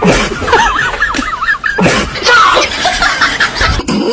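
People laughing and giggling: quick high breaths and squeals of laughter, loud throughout, cutting off abruptly at the very end.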